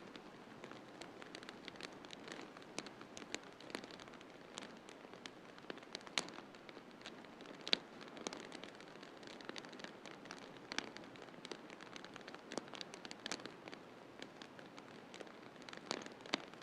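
Wood fire crackling in a fireplace: irregular pops and snaps over a steady soft hiss, with one sharper pop a little before the middle.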